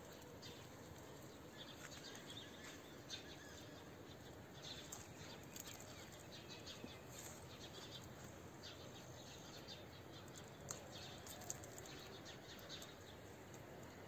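Faint outdoor ambience with scattered short, high bird chirps over a steady low hiss.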